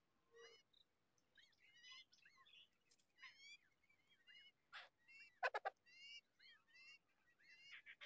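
Birds calling: faint short high chirps repeated throughout, with a few louder harsh notes in quick succession about five and a half seconds in.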